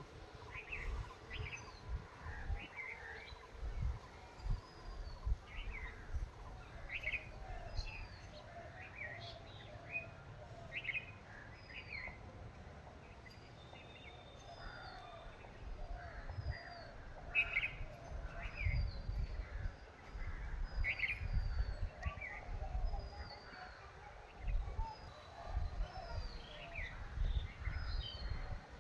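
Wild birds chirping over and over: short, high, falling calls, often several a second from more than one bird. A low rumble comes and goes underneath.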